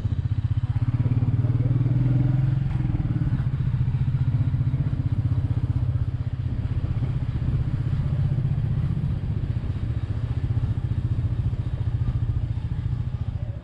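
Royal Enfield Meteor 350's single-cylinder engine running at a steady cruise, a low, even pulse of firing strokes.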